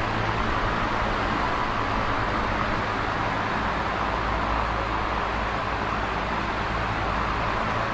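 Electric fan running steadily: a low motor hum under an even rush of air from the blades.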